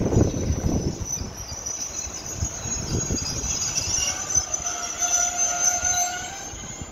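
Freight train of open wagons braking to a stop: low rolling thumps from the wheels fade out while the brakes and wheels squeal in a steady high tone, joined by several held squealing tones about four seconds in.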